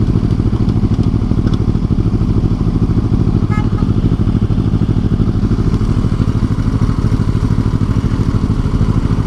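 Motorcycle engine running steadily at an even pitch, its rapid firing pulses heard close up from the rider's position.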